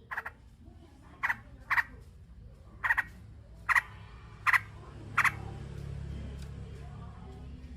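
Juvenile yellow-vented bulbul (trucukan) giving its 'ngriwik' chirp, a nestling's begging call: seven short sharp chirps spaced about half a second to a second apart, over a low steady hum.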